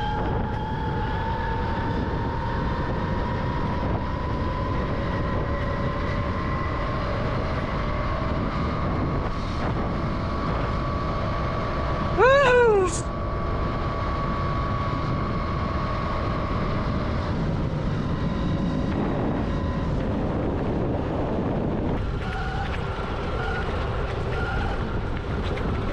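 Electric dirt bike riding on a trail: a steady motor whine that glides slowly in pitch with speed, over a constant rumble of wind and tyres. About twelve seconds in there is a short, loud, high cry that bends up then down.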